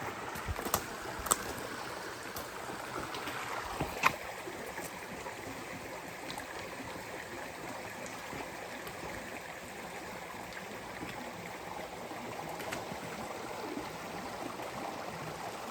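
Creek water running steadily over rocks, with a few sharp knocks in the first seconds, the loudest about four seconds in.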